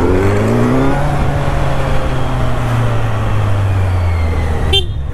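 A motor vehicle's engine speeds up, its pitch rising through the first second, then runs on at a steady speed with a low hum.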